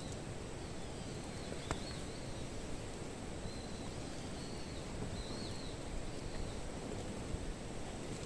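Outdoor ambience with a bird repeating a short, high, arched chirp about once a second, over a steady low background noise. A single sharp click sounds about two seconds in.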